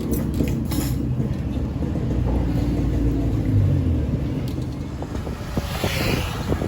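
Steady low rumble of wind and road noise on a riding cyclist's camera microphone, with a brief hiss that swells and fades about six seconds in.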